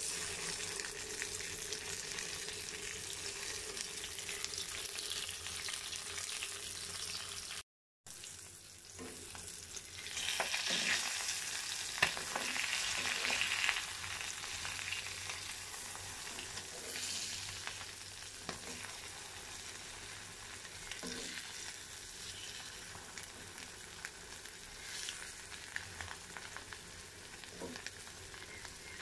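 Boiled egg halves and beaten egg sizzling in hot oil in a stone-coated karahi, with a metal spatula scraping and clicking against the pan. The sound cuts out briefly about eight seconds in. The sizzle grows louder about ten seconds in, then settles.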